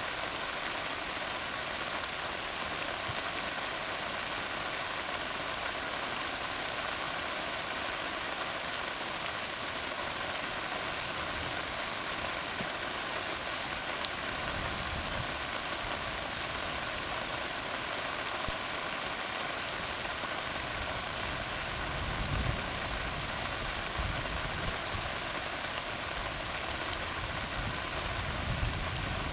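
Steady rain falling on a tar road, an even hiss with scattered sharp drop ticks. A soft low rumble swells up in the second half.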